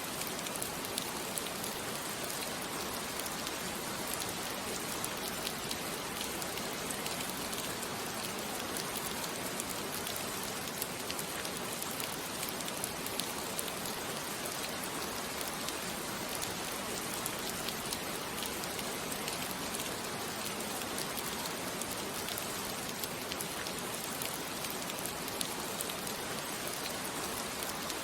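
Steady rain falling and pattering on a surface, a dense even hiss with fine drop ticks throughout.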